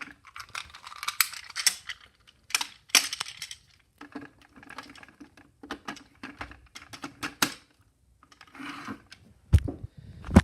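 Hard plastic toy Zord vehicles being handled and slid together: repeated clicks, rattles and scraping of plastic parts, with two sharp knocks near the end.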